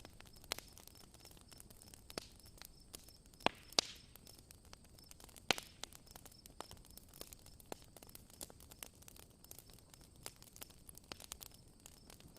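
Campfire crackling: scattered sharp pops and snaps of burning wood over a faint steady hiss, with the loudest pops about three and a half and five and a half seconds in.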